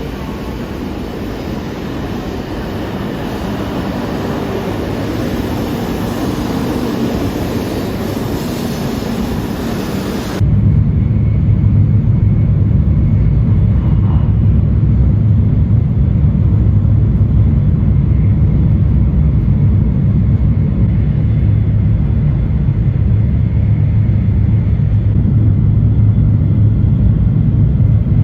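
Steady travel noise of a moving vehicle, changing abruptly about ten seconds in from a broad rushing noise to a heavier, steady low rumble.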